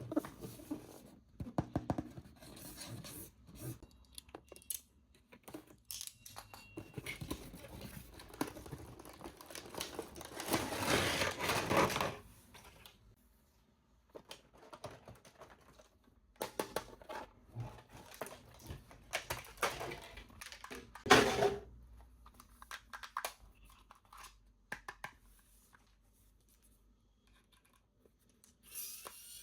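Toy packaging being handled and opened: crinkling, tearing and scattered clicks and taps, with a longer, louder stretch of tearing about ten seconds in and one sharp knock around twenty seconds in.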